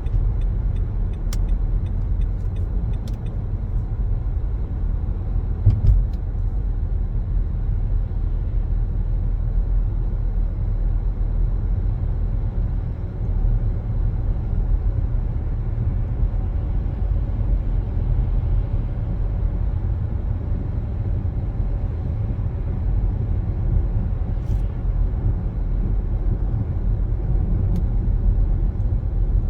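Steady low road rumble of a moving car, tyre and engine noise heard from inside the vehicle, with a single brief thump about six seconds in.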